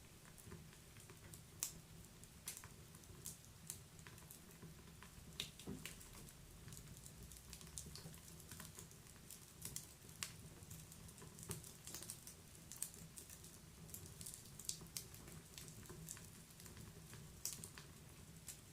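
Wood fire crackling: irregular sharp pops and snaps from burning logs over a faint low hiss.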